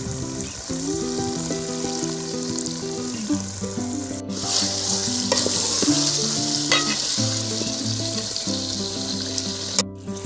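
Chicken kosha sizzling and frying in a pan, with occasional clicks of stirring. The sizzle cuts out abruptly about four seconds in and again near the end. Soft background music with held notes plays underneath.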